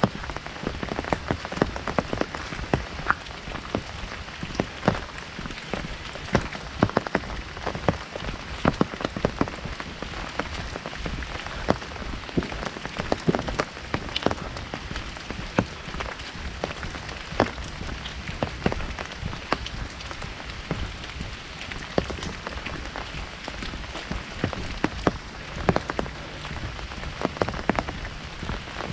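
Heavy rain falling on an umbrella overhead: a steady hiss with many sharp, irregular drop hits on the canopy.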